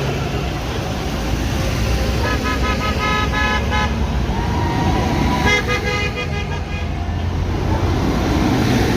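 Horns on passing convoy vehicles sounding in two spells of rapid stuttering toots with a held horn note between them, over a steady low rumble of engines.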